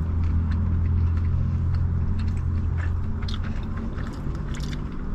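Someone chewing a bite of a bacon burger, with short wet clicks and crunches, over the steady low hum of the car they are sitting in.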